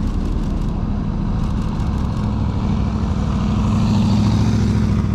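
Motor vehicle engine running with a steady low hum that grows louder in the second half.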